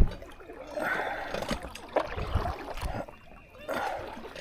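Water sloshing and gurgling against a kayak, with a few short knocks on the hull.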